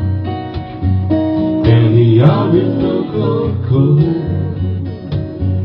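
Live folk song: acoustic guitar strummed and picked, with singing voices carried over it between the lyric lines.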